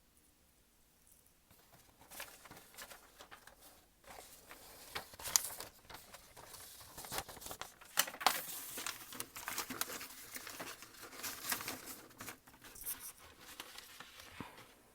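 Crinkly material handled close to the microphone: irregular rustling and crackling, starting about a second and a half in and dying away just before the end.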